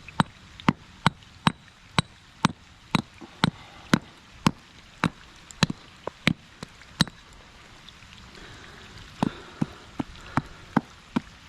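Steel hard rock hammer striking rock in a steady run of sharp, slightly ringing blows, about two a second, chipping out an embedded ammonite fossil. The blows pause about seven seconds in, then several more follow. Light rain hisses underneath.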